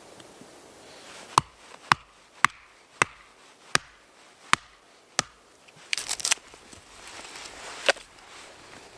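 Chopping with a blade: seven sharp strokes about half a second apart, spacing out a little after the fourth. A quick flurry of lighter knocks follows about six seconds in, then one more stroke near the end.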